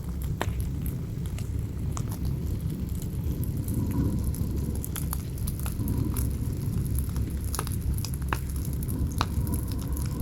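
Campfire crackling, with scattered sharp pops and snaps, over a deep, steady rumble of wind. A faint whistling howl of the wind comes in about four seconds in and again near the end.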